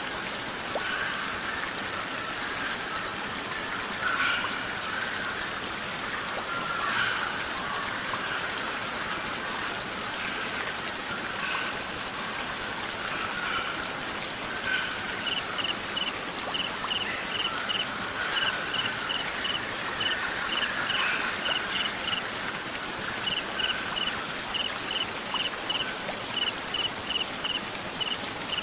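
Steady hiss of rain, with a cricket chirping in short rapid trains of high, even-pitched pulses from about halfway through.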